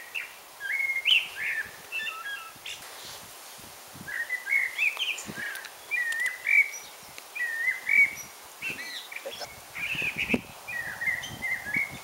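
A songbird singing in short, repeated phrases of quick chirping notes, with a pause about three seconds in.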